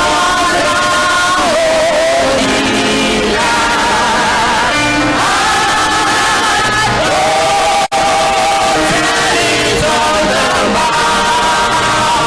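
Gospel choir singing with instrumental accompaniment, holding long notes with vibrato. The sound drops out for an instant about eight seconds in.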